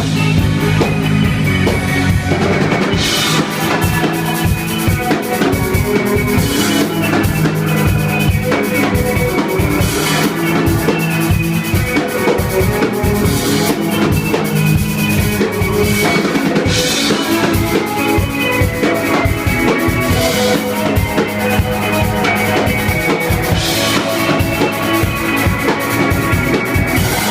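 A band playing with a drum kit keeping a steady beat over held bass and melody notes, with a cymbal crash about every three and a half seconds.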